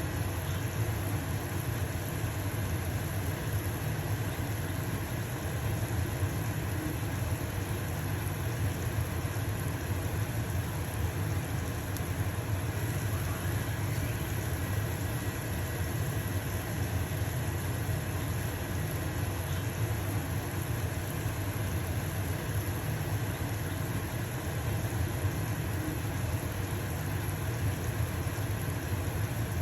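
Range hood fan running steadily with a low hum, over the even sizzle of pancake batter frying in a pan.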